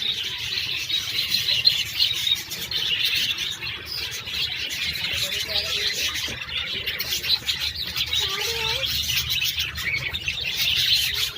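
A flock of caged lovebirds chattering: a dense, continuous high-pitched twittering of many birds at once, with a few lower warbling calls mixed in.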